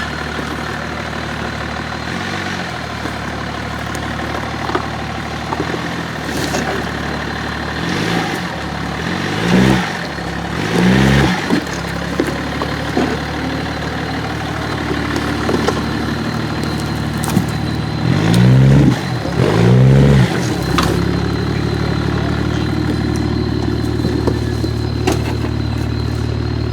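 Off-road vehicle's engine idling, with short throttle blips where the engine note rises and falls: a pair about a third of the way in and another pair about two-thirds in.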